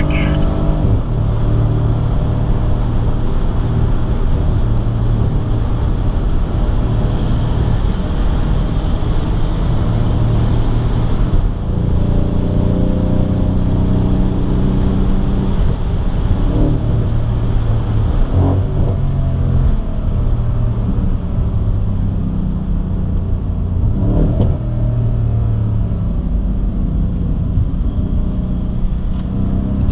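Mercedes-AMG C 63 S's twin-turbo V8 heard from inside the cabin while lapping a race track, running hard. Its note climbs and falls several times as the car accelerates and slows for corners.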